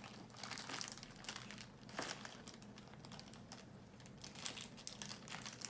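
Thin plastic blind-bag packet crinkling as it is pulled open by hand, a string of faint crackles and rustles.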